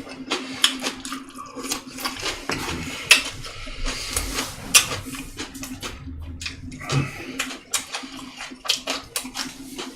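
Eating sounds: close-up chewing and wet mouth sounds, with chopsticks and dishes clicking many times, over a steady low hum.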